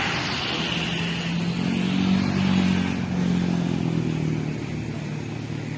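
A road vehicle's engine passing close by, loudest about two seconds in and then fading. Under it, a high jet whine dies away in the first second.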